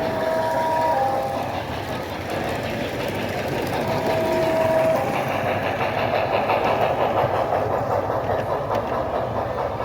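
Blunami sound decoder in a LEGO Southern Pacific 4449 steam locomotive model playing recorded steam locomotive running sounds through its small speaker. Brief steady tones sound about a second in and again about four seconds in, over a constant noisy background.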